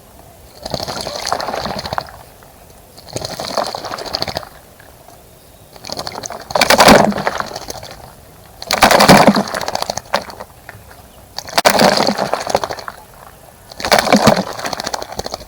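A small bird splashing in a bird bath, fluttering its wings in the water in six short bouts about every two and a half seconds, with quiet pauses between.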